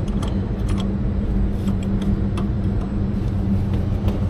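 Steady low machinery hum with a pronounced low tone, with a few light metallic clicks of wrenches on gas-valve piping.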